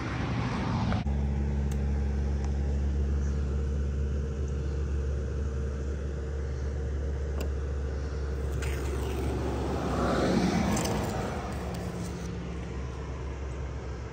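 A steady low vehicle engine hum starts about a second in. About ten seconds in, a passing vehicle swells and fades.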